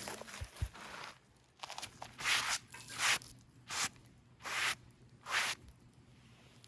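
Slow footsteps crunching on the ground, about five steps a little under a second apart.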